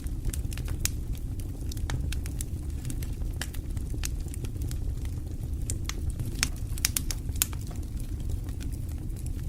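Wood fire burning in a fireplace: a steady low rumble of the flames with irregular sharp crackles and pops, a quick run of them about two-thirds of the way through.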